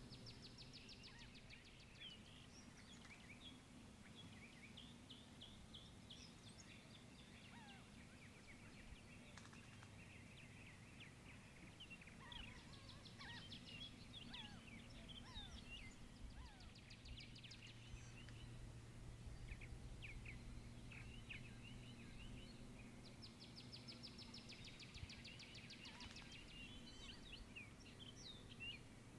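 Faint birdsong: scattered chirps and short sliding calls, with a fast high trill three times, each lasting a second or two, over a low steady hum.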